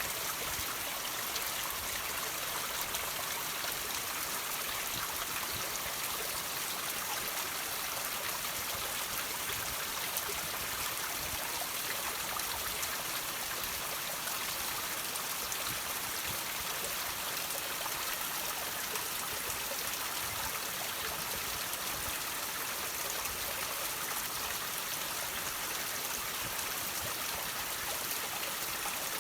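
Water dripping and trickling off rocks: a steady, hissing patter of many small drops and splashes that runs on without change.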